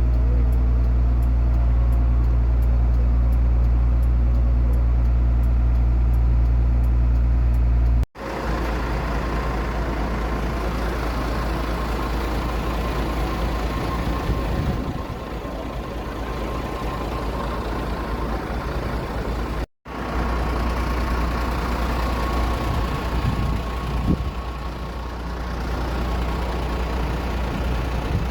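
Steady engine noise in three stretches, broken by two abrupt cuts, about 8 and 20 seconds in. The first stretch is a steady deep hum; after the cuts it turns rougher and slightly quieter, with a faint steady whine.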